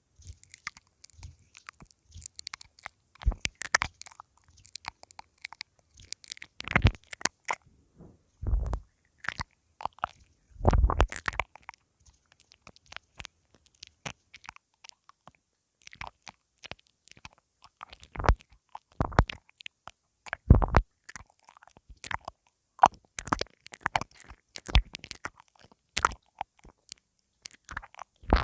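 ASMR mouth sounds on a lavalier (pin) microphone: nibbling at the mic head close up, giving irregular crunchy clicks and rustles with a few heavier low thumps.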